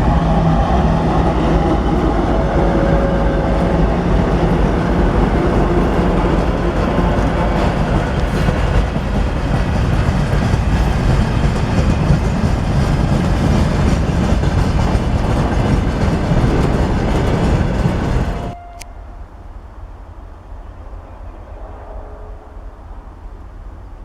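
A diesel train passes close by, its engine running and its wheels clicking over the rail joints. The sound cuts off abruptly about 18 seconds in, leaving quiet outdoor background.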